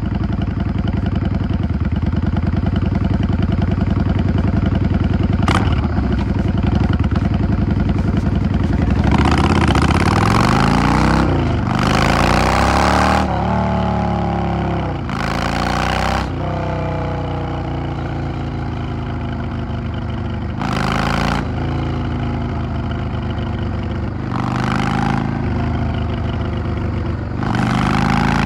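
Yamaha XVS 650 V-Star bobber's V-twin engine heard from the rider's seat, running steadily and then pulling and easing off several times. Its pitch rises under throttle and falls as it slows, with short bursts of loud rushing noise during the harder pulls. There is a single sharp click about five seconds in.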